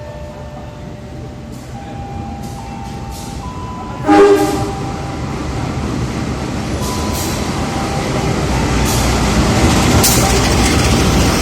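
Passenger train arriving at a station: a short, loud horn blast about four seconds in, then the running noise of the train growing steadily louder as it comes in.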